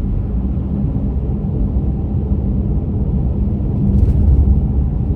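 A car driving along a highway: steady low rumble of tyres and engine, with a brief louder swell about four seconds in.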